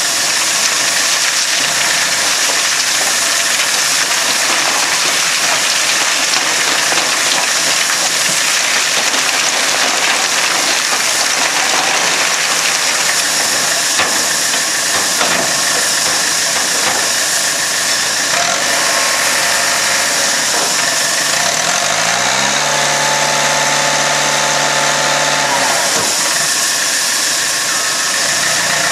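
A train running, with steady loud noise and hiss throughout. About two thirds of the way through, an engine note rises, holds for a few seconds and then drops away.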